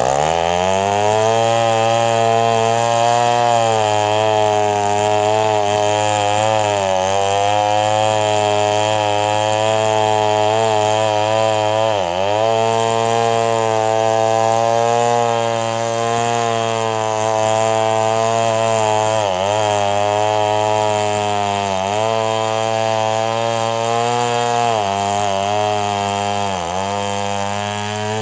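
Two-stroke chainsaw ripping a log into boards, its engine revving up at the start and then running at high revs under load. Its pitch dips briefly about four times as the engine bogs in the cut.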